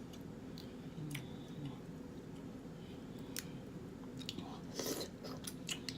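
A person chewing seafood-boil food close to the microphone, with scattered sharp mouth clicks and smacks and a short rustle about five seconds in.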